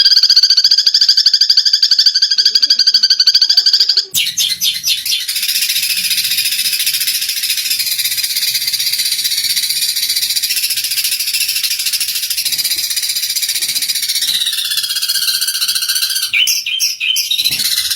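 Eurasian tree sparrows calling in a fighting bout. A fast, buzzy trill gives way about four seconds in to dense, high-pitched chattering, which turns choppy near the end.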